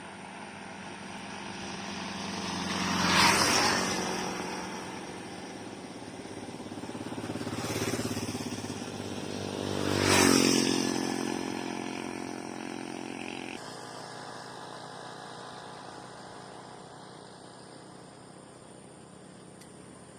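Three motor vehicles passing by one after another, each swelling and fading as it goes past, the loudest about halfway through, then a quieter steady background.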